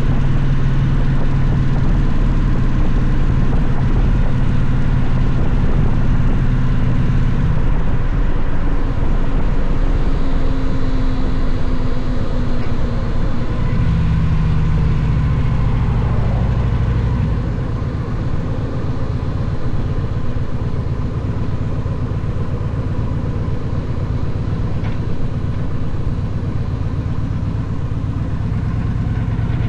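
Victory motorcycle's V-twin engine running under way on the road, steady for the most part. The engine note shifts around 8 seconds in and again around 14 seconds in, and the sound is a little quieter from about 17 seconds on.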